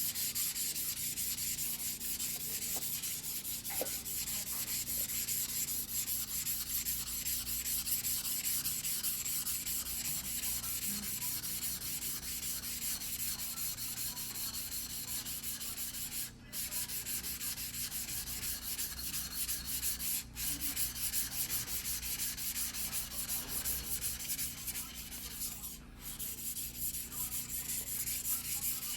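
Single-bevel fuguhiki sashimi knife of white steel being hand-sharpened on a whetstone: rapid, steady back-and-forth scraping strokes of steel on stone, broken by three brief pauses.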